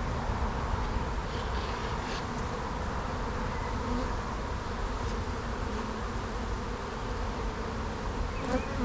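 A swarm of honey bees flying around an opened hive, making a steady, dense buzzing drone; the colony is agitated and defensive. A short knock sounds near the end.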